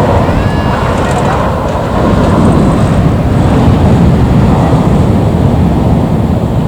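Airbus A321 airliner's jet engines, a loud steady deep rumble, with wind buffeting the microphone.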